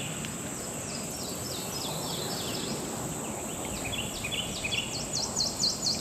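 A songbird singing runs of quick, falling notes, repeated several times, with a faster run near the end, over a steady high insect drone and a low outdoor hiss.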